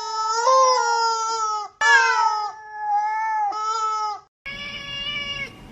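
Cat yowling in four long, drawn-out meows one after another, then a short break and one quieter meow near the end.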